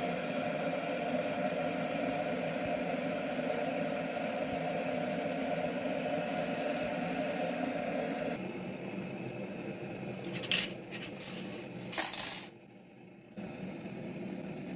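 Electric kettle heating with a steady rushing noise that drops away about eight seconds in. A few seconds later come several sharp clinks, like crockery or cutlery knocking together.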